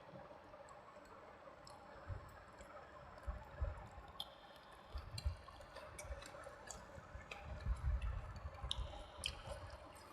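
Close-miked wet eating sounds: chewing, squishing and sharp mouth clicks, irregular and busier in the second half.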